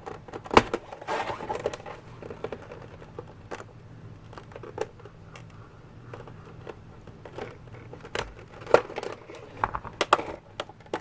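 Scalpel cutting around a stiff plastic blister bubble on a carded action figure: the plastic crinkles and crackles, with irregular sharp clicks as the blade and bubble knock against the tabletop, a cluster of them near the end.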